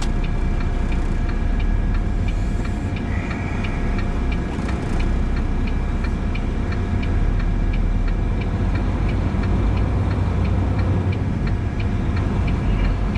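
Grain truck running down the road, heard from inside the cab: a steady engine and road rumble with a faint whine. A light regular ticking of about three clicks a second runs through it.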